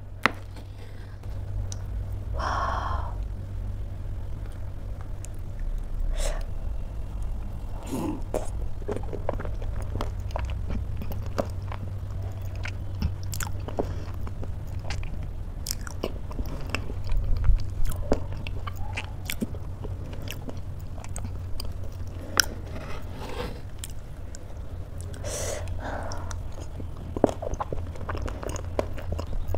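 Close-miked eating: chewing and biting through a spoonful of oatmeal topped with almonds, Oreo cookies and chocolate, with many short crisp clicks and crunches. A steady low hum runs underneath.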